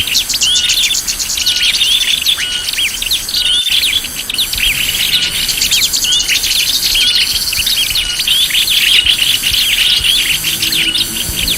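Small songbirds chirping and twittering in a dense, continuous chorus of overlapping calls, as played for a bird lure, with a high, evenly repeating buzz running above it.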